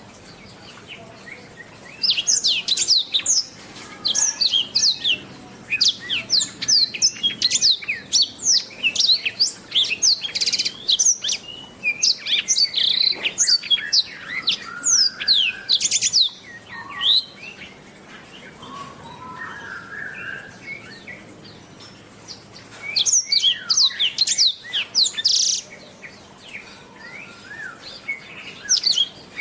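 Blackthroat (black-throated canary) singing a fast, high twittering song of rapid sweeping notes. It sings in long bouts: one of about fourteen seconds that starts a couple of seconds in, then a quieter stretch with softer chirps, then a shorter bout and another starting near the end.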